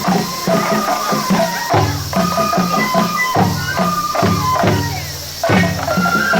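Japanese festival hayashi music for a lion dance: repeated taiko drum strokes under a bamboo flute holding high melodic notes.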